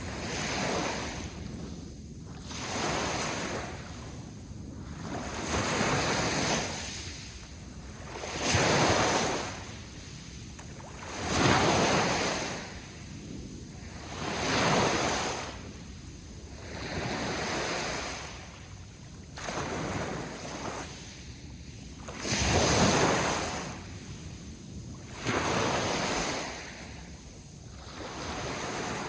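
Sea waves breaking and washing on the shore, swelling and falling back every two to three seconds, some surges louder than others, with wind on the microphone.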